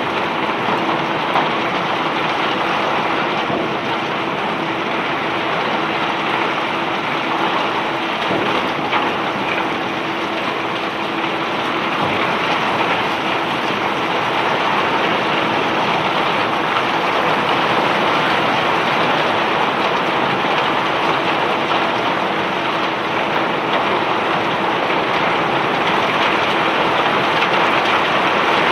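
Bulk cargo pouring off a self-unloading barge's discharge conveyor: a steady rushing, rain-like noise of falling rock and ore. A steady machinery hum runs under it and fades out about halfway through.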